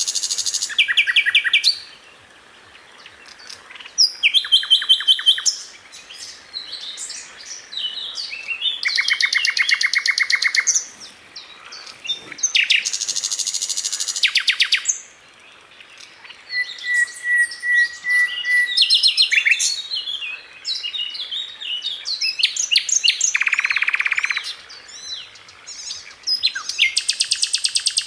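Sikatan londo flycatcher singing in bursts of very fast rattling trills. Each burst lasts a second or two, and the song jumps between higher and lower pitches with short pauses between bursts.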